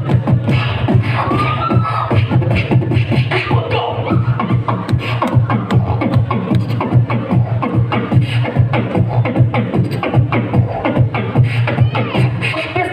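Human beatboxing: a fast, steady run of vocal percussion strokes over a sustained low bass tone.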